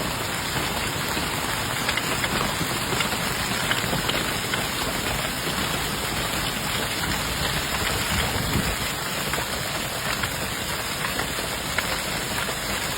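Heavy rain falling steadily in a thunderstorm, with scattered sharp ticks of drops striking hard surfaces.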